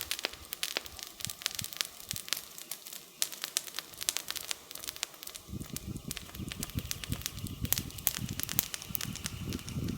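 Wood fire crackling, with frequent sharp pops and snaps of burning firewood. About halfway through, a low rumble joins and stays under the crackle.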